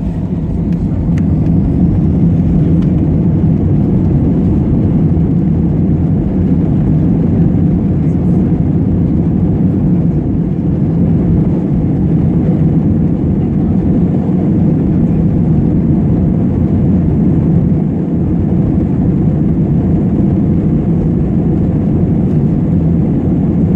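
Airbus A320-200 cabin during takeoff: a loud, steady, low rumble of the jet engines and the roll down the runway. It builds over the first couple of seconds, then holds.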